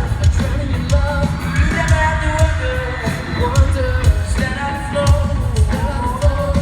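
Pop-rock band playing live: a lead voice sings a melody over a steady drum beat and guitars, in the sound of a large hall.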